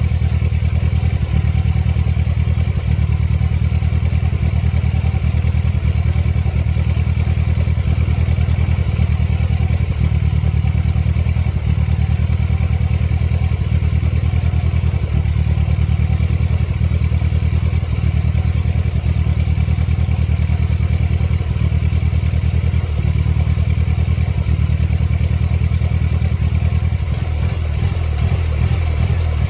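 1999 Mercedes-Benz C230 Kompressor's supercharged four-cylinder engine idling with its mass airflow sensor and idle air control valve unplugged. It runs steadily with small irregular stumbles, on an engine whose check-engine light flashes and which has been running shaky and stalling.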